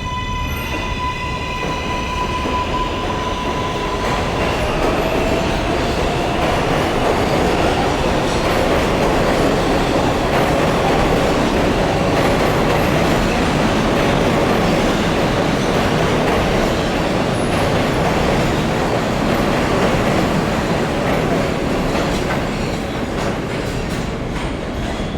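NYC subway R188 train on the 7 line running past on the rails: the electric propulsion holds a high steady whine for the first few seconds, then the rumble and rattle of the wheels on the track build up and stay loud, easing a little near the end.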